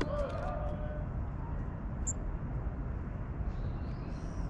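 A single short, thin, high call from a small tit comes about two seconds in, over a steady low outdoor rumble. A few light taps and a brief wavering sound fall near the start.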